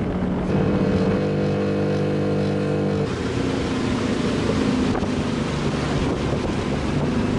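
Boat engine running steadily as the boat motors along, with some wind on the microphone; the pitch of its drone shifts about three seconds in.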